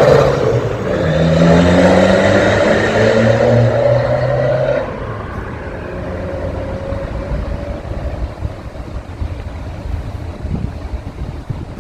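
BMW 520d's four-cylinder diesel exhaust revving, its pitch rising for about five seconds. It then drops off suddenly and runs on quieter and lower.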